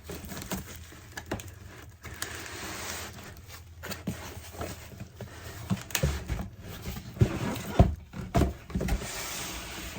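Box packaging rustling as a new coffee maker is pulled out of its carton, with several knocks and thumps about six to nine seconds in.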